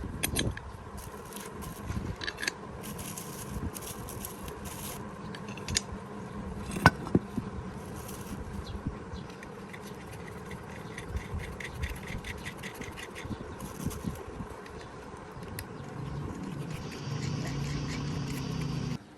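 Metal tools and parts clinking and scraping during hands-on repair work on tractor brakes, with one sharp metallic knock about seven seconds in. Near the end a steady noise runs for a couple of seconds and cuts off abruptly.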